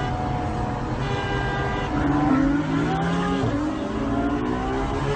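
Ferrari engine heard from inside the cabin, running steadily, then accelerating hard from about two seconds in. The pitch climbs, drops at an upshift, and climbs again.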